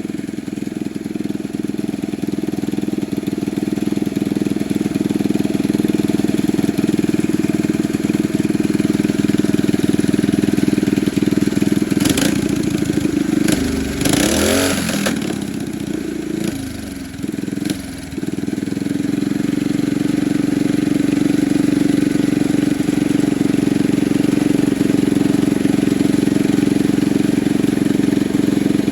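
Small single-cylinder mini bike engine running steadily at speed. About halfway through, the engine note falls and dips, with a few clicks and a brief hiss, then comes back up to a steady run.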